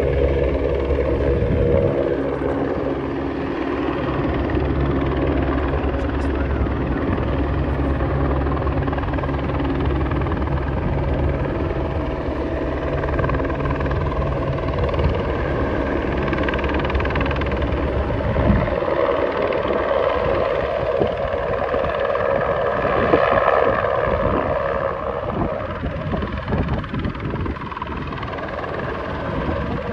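Helicopter running steadily: a low rotor and engine drone under a rushing noise. About two-thirds of the way through the low drone drops out suddenly, leaving the rushing noise, which swells and then eases off.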